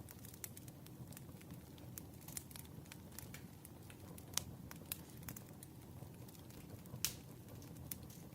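Wood fire of burning logs crackling: a steady low rumble with scattered sharp pops, the loudest about four and a half and seven seconds in.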